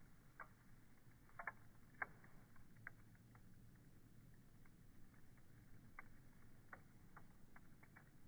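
Faint, irregular crackles and pops of wood burning in a homemade pail-can wood gas stove, over a low steady hum; the loudest pop is about two seconds in.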